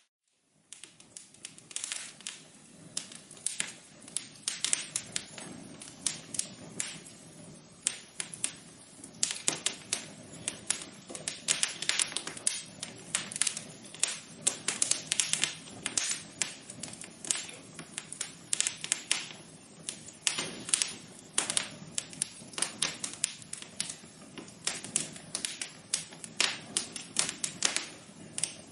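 Wood fire crackling in a fireplace: irregular sharp pops and snaps, several a second, over a low steady hiss, fading in just after a brief silence at the start.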